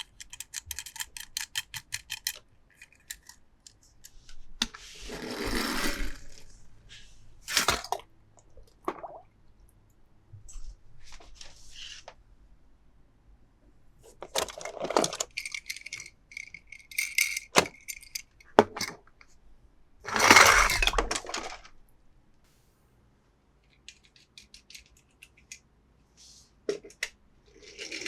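Toy cars and their packaging being handled: runs of quick clicks, clinks and rattles, with a longer rustle about five seconds in and again about twenty seconds in.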